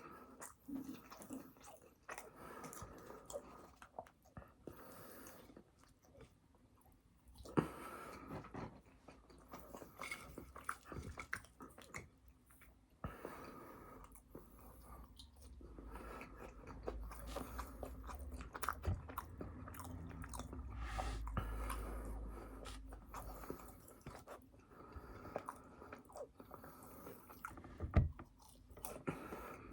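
A person chewing and biting fast food, a burger and fries, with wet mouth clicks and some crunching. Two sharp knocks stand out, about a quarter of the way in and near the end.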